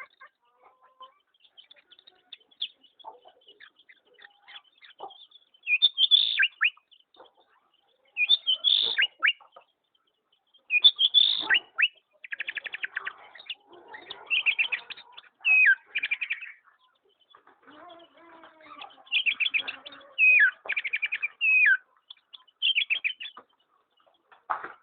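A songbird singing in short phrases of high chirps and fast trills, with brief gaps between them. It is faint at first and louder from about six seconds in.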